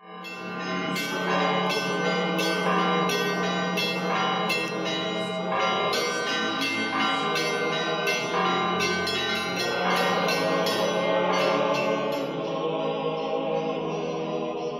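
Church bells ringing in a quick peal, several strokes a second over a steady low hum. The strokes stop near the end and the ringing dies away.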